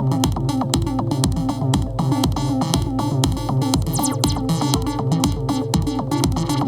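Electronic techno music played on hardware drum machines and synthesizers: a steady kick drum about twice a second with fast hi-hats over it and a repeating synth bass line.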